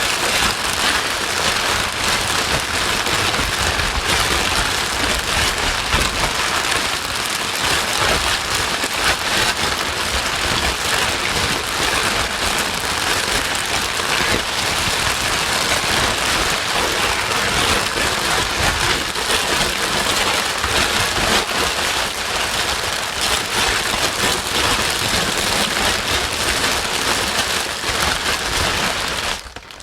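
Steady white noise played as a baby-soothing sleep sound, an even hiss strongest in the upper range, which drops out briefly just before the end.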